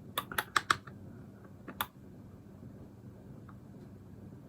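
Computer keyboard keys clicking: a quick run of about five taps in the first second, one more near two seconds in, over a faint steady hum.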